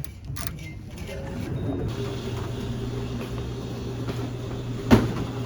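City bus running, heard from inside the cabin: a steady engine hum that grows louder about two seconds in as the bus gets under way. A single sharp knock comes near the end.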